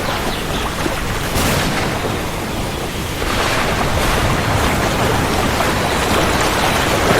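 Heavy rain falling steadily, with a low thunder rumble underneath; the downpour grows louder about three seconds in.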